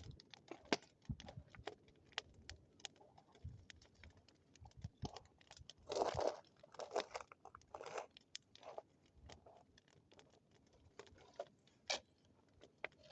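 Bonfire crackling, with scattered sharp pops and clicks and a few louder crunching rustles about six to eight seconds in.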